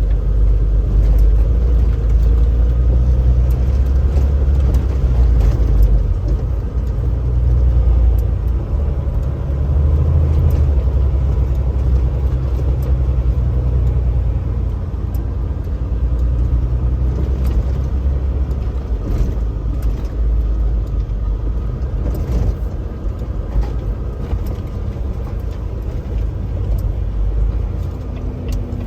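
Truck driving on a snow-covered road, heard from inside the cab: a steady low rumble of engine and road noise.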